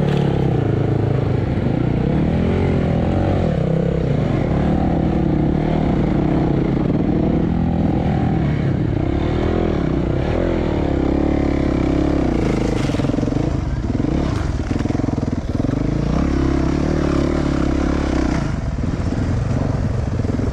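Yamaha enduro dirt bike engine running while being ridden, its pitch rising and falling with the throttle. A couple of brief knocks come about two-thirds of the way through.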